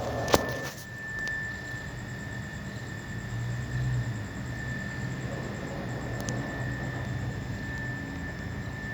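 Steady low hum with a thin, steady high whine above it, and one sharp click just after the start; no bird song is heard.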